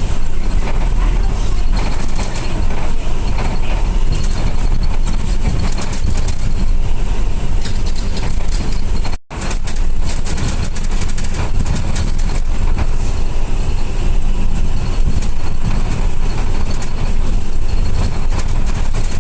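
Steady engine and road noise of a city route bus heard from inside the cabin, with a strong low rumble. The sound cuts out for a moment about nine seconds in.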